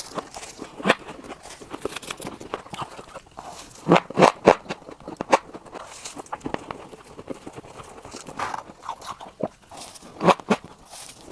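Freezer frost ice being bitten and crunched close to the microphone: irregular sharp crunches, with the loudest in a quick cluster about four seconds in and another about ten seconds in.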